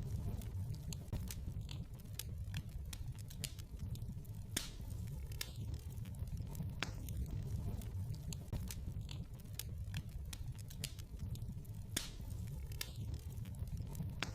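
Wood fire in a fireplace crackling, with irregular sharp pops over a steady low rumble of the flames; a few pops stand out louder.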